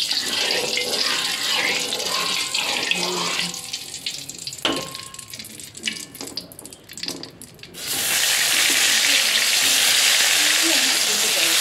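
Hot cooking oil in a steel wok hissing lightly, with one sharp metallic click near the middle. About eight seconds in, food goes into the oil and a loud, steady frying sizzle starts suddenly and keeps going.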